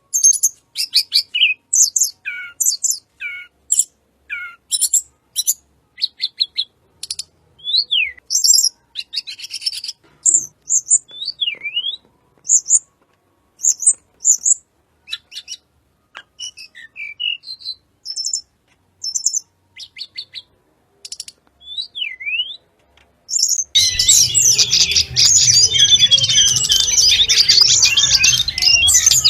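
Sulingan gunung (tledekan gunung) songbird singing: scattered high chirps, short trills and quick whistles that swoop down and up, with brief gaps between phrases. About 24 s in, the song turns into a dense, unbroken rapid warble over a low background hum.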